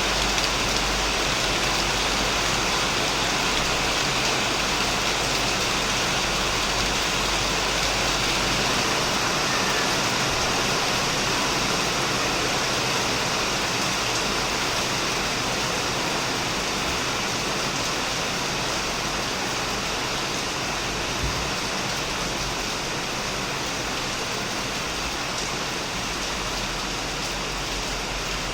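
Heavy rain falling steadily on a shed roof and plants, a dense, even hiss.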